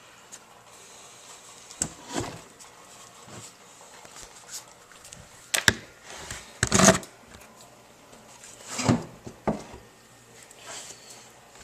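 Handling noises: scattered knocks and rustles as car parts and their packaging are moved about, the loudest a cluster about six to seven seconds in and another near nine seconds.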